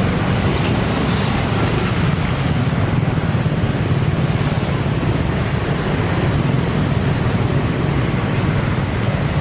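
Steady vehicle rumble with a constant hiss, even and unchanging throughout.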